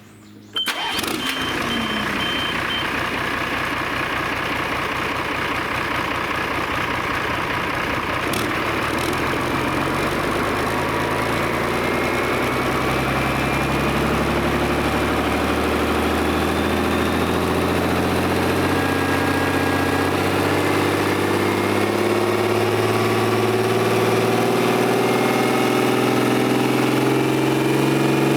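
Yanmar 6CH-STR six-cylinder marine diesel engine starting about half a second in, catching at once, then running steadily at idle. Its pitch creeps up slightly in the second half.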